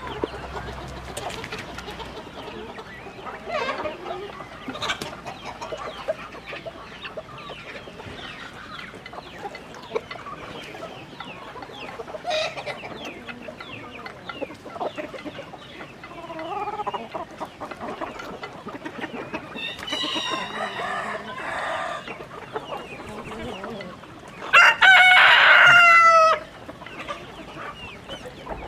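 A flock of chickens clucking throughout, with a fainter crow around two-thirds of the way in and a loud rooster crow lasting nearly two seconds near the end.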